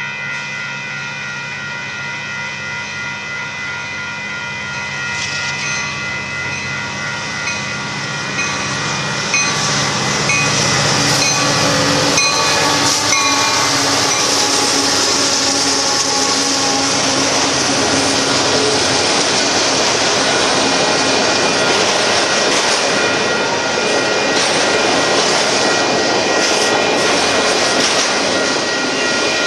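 Grade-crossing warning bell ringing as a Union Pacific freight train approaches. The locomotives grow louder and pass about ten to thirteen seconds in, followed by the steady rolling noise of autorack freight cars going by on the rails.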